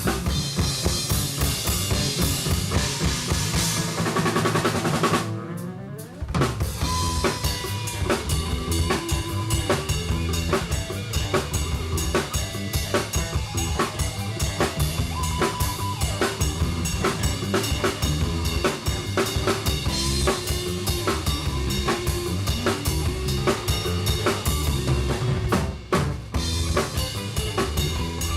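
A live rock band plays with a loud, busy drum kit driving the music. The band stops for a short break about five seconds in, then comes back in at full volume.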